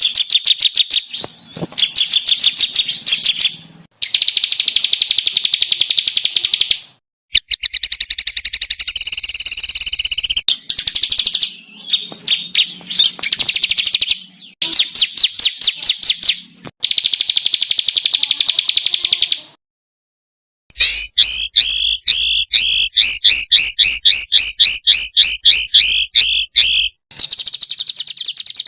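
Small songbirds singing rapid, high-pitched trilled bursts of quickly repeated notes. Several separate passages follow one another, with a few short silent breaks between them.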